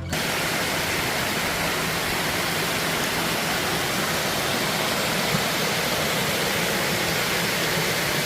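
Steady rushing of flowing water from a mountain stream, unbroken and even throughout.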